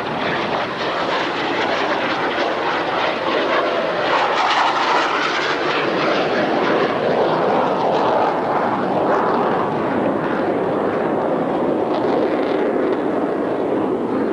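Jet noise from Blue Angels F/A-18 Hornets, twin-engine turbofan jets, flying a low pass: a loud, steady rushing sound that swells about four seconds in and stays loud.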